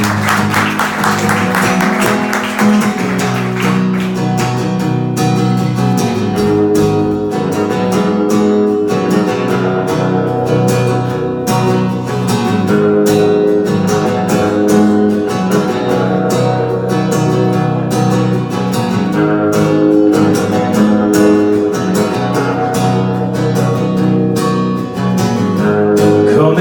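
Instrumental intro of a live song played on strummed acoustic guitar, with audience applause dying away over the first few seconds.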